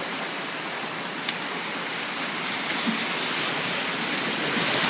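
River water rushing steadily around a drifting boat, an even hiss of current with no other clear event.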